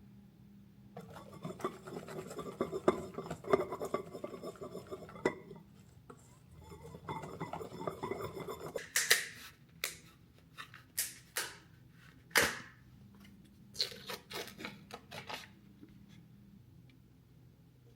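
Kitchen preparation sounds: a stretch of clattering and rustling as things are handled, then a run of about a dozen sharp, separate strokes, such as snips or tears.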